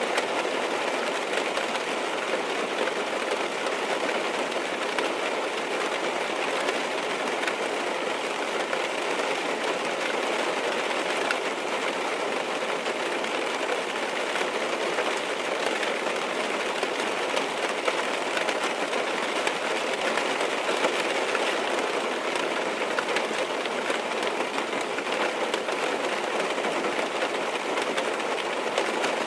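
Rain falling on a car's roof and glass, heard from inside the cabin: a steady, even rush of dense drops that does not change.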